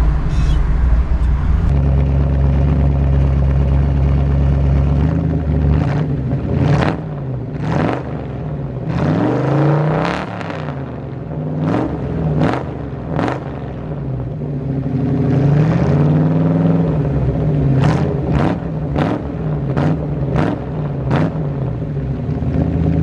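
1966 Ford Mustang's 289 small-block V8 through its stock exhaust, running steadily at first and then revved repeatedly. Several long rises and falls in engine speed are mixed with quick sharp throttle blips, the blips coming in a rapid run near the end.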